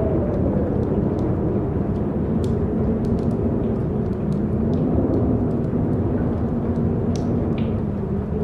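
Strong wind blowing in a steady rumble, with a low howl that slowly wavers in pitch and faint scattered ticks.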